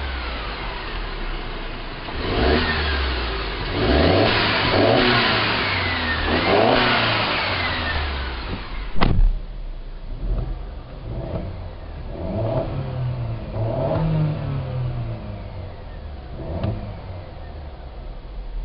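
2012 Mercedes C250's turbocharged four-cylinder engine being blipped at standstill: a series of quick revs, each rising and falling back to idle. About nine seconds in there is one sharp knock, and the revs that follow sound duller, with the treble cut away.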